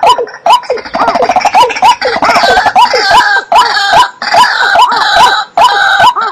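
Recorded calls of marsh birds (watercock, white-breasted waterhen and bittern): a call repeated about twice a second, each rising and falling in pitch. From about a second in until near the end, a denser chorus of harsher calls overlaps it.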